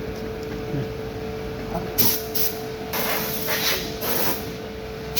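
Short hissing blasts of compressed air, about five in the second half, starting and stopping sharply, over a steady hum with one even tone.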